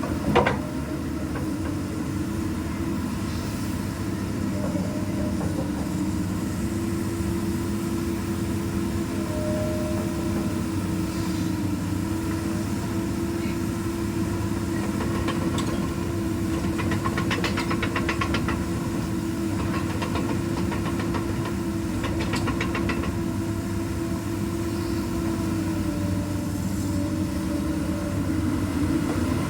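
Komatsu PC200 excavator's diesel engine running steadily with an even hum, and a single sharp clack about half a second in.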